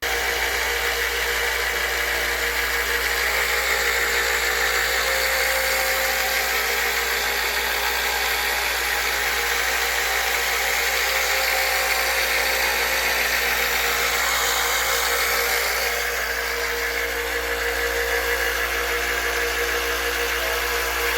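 Harbor Freight 1x30 belt sander with 5-inch disc sander running steadily with no load, bolted down on a level cast-iron grinder stand, in a test run for noise and vibration.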